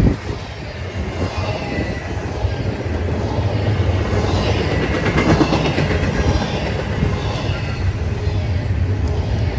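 Double-stack intermodal freight cars rolling past on steel wheels: a steady rumble with faint high wheel squeal, and a burst of clattering over the rail about halfway through.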